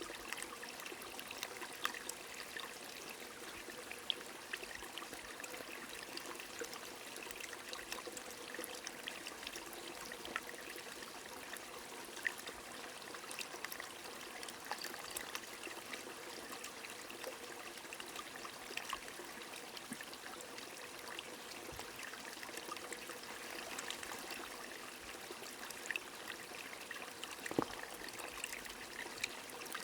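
Gentle rain falling with a stream trickling steadily, small drop ticks scattered throughout and one slightly sharper drop near the end.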